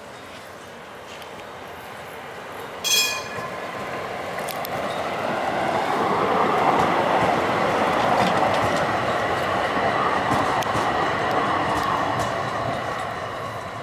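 A Grossraum tram running past on its rails, its wheel and track noise swelling to a peak midway and then fading. About three seconds in there is a single brief, high ring.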